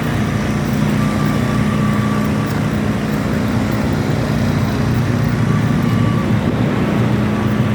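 Steady low hum of a motor vehicle engine running, with a haze of road traffic noise.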